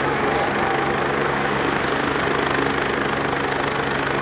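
Agusta A109E twin-turbine helicopter running steadily, its engines' whine and the rotor's even churn holding at one pitch and level.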